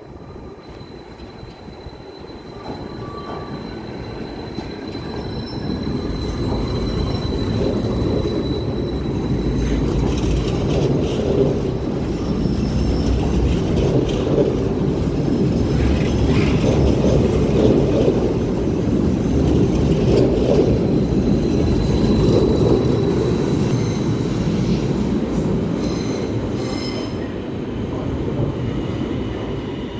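X74 electric train pulling out of a station. Its running noise builds over the first several seconds and then holds steady, with a thin high whine throughout and a few short wheel squeals near the end.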